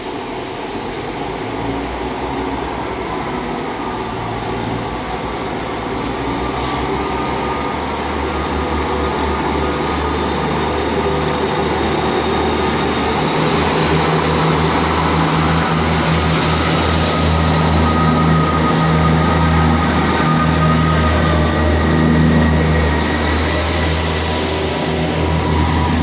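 Diesel train engines running and growing steadily louder, with a deep steady note joined by a high whine that rises in pitch through the first half.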